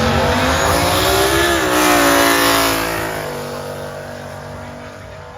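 Race car engine accelerating hard, its pitch climbing for about two seconds with a shift-like step, then fading away as the car pulls off.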